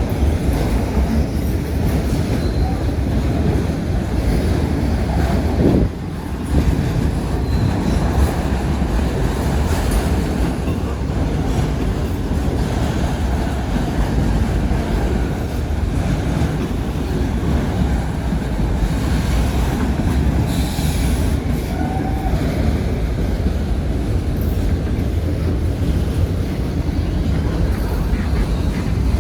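Freight cars of a long Norfolk Southern train rolling past at close range: a steady rumble and clatter of steel wheels on the rail, with a few brief, faint wheel squeals.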